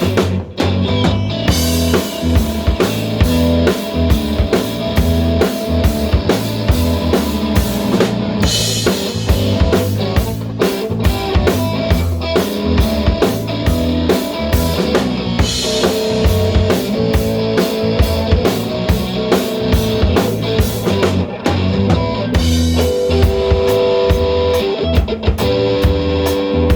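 Rock band playing an instrumental break: drum kit keeping a steady beat with electric guitar and bass, no vocals.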